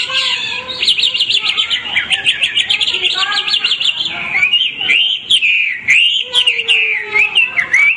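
White-rumped shama (murai hutan) singing: a fast run of short repeated notes, then varied rising and falling whistled phrases from about four seconds in.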